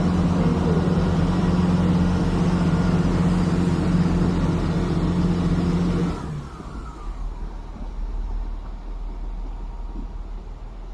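A train's engine running with a steady note, which stops abruptly about six seconds in, leaving a quieter low rumble.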